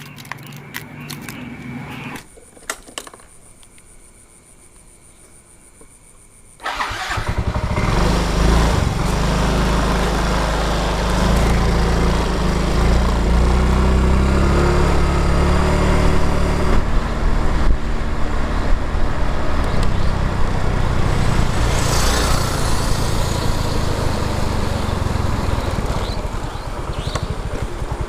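A few clicks and knocks, then an engine starts about six and a half seconds in and keeps running steadily.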